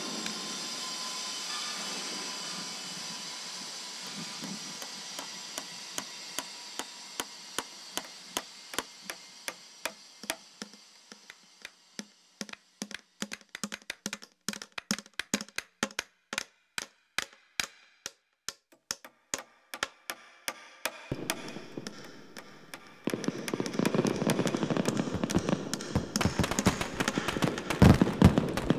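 Layered soundscape of found noises: a steady hiss that slowly fades, while sharp clicks come in and grow more frequent, a few each second. Near the end a loud, dense crackling noise starts suddenly and is the loudest thing heard.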